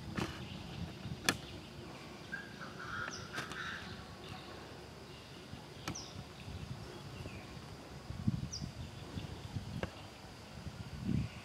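Short, high bird chirps repeating every two to three seconds, with a few sharp clicks among them.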